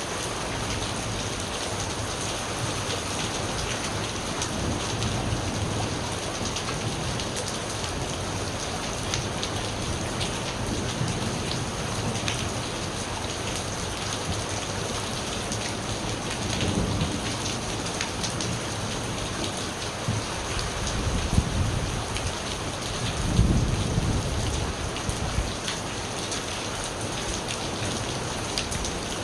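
Steady rain falling, with many small drop ticks. Thunder rumbles low in the second half, loudest about three quarters of the way through.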